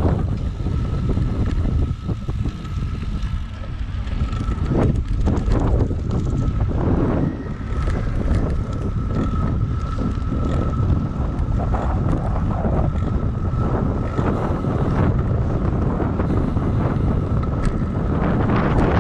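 Wind buffeting the microphone of a moving bicycle, a dense low rumble rising and falling in gusts, with a faint steady high whine running through most of it.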